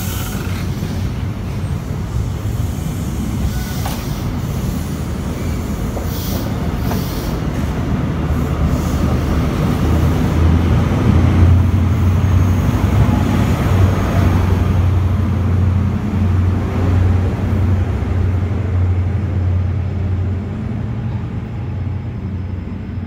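An InterCity 125 High Speed Train moving out along the platform, its coaches rumbling past. The low diesel drone of the rear Class 43 power car swells to its loudest as it goes by about halfway through, then fades as the train draws away.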